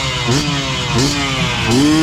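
Two-stroke motorcycle engines being revved in quick throttle blips, each a sharp rise in pitch followed by a slower slide back down, several times in a row over the steady run of another idling engine.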